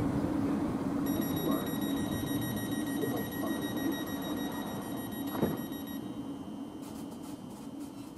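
Train running away down the line, its rumble and hum fading steadily. From about a second in to about six seconds a steady high-pitched electronic tone sounds over it, and there is a sharp click about five and a half seconds in.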